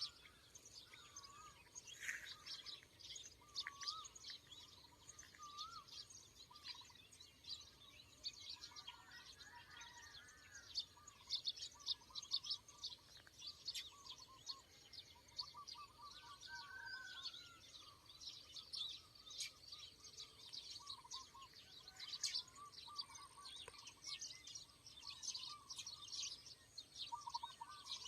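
Birds calling: rapid, dense high chirps throughout, with lower warbling calls among them, faint.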